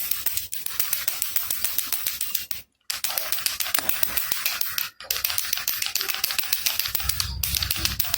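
Baby rattle shaken rapidly: a fast, continuous run of small clicks from the beads inside, broken by two brief pauses, one around the middle and one a couple of seconds later, with a low thud of handling near the end.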